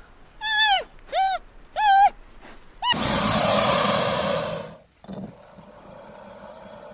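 A red panda giving three short, high, whistling squeals. Then a crocodile hisses loudly for about two seconds, followed by a fainter steady sound.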